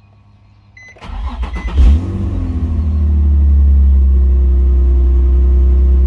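Nissan 350Z's 3.5-litre V6 being started from inside the cabin: the starter cranks briefly about a second in, the engine catches just before two seconds with a quick rev flare, then settles into a steady idle.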